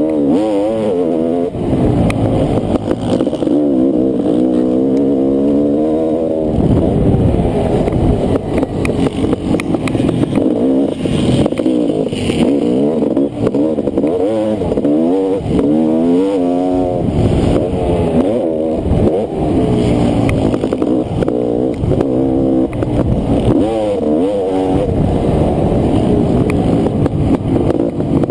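Honda CR500's single-cylinder two-stroke engine under race throttle, its pitch climbing and dropping over and over as the throttle is opened and chopped.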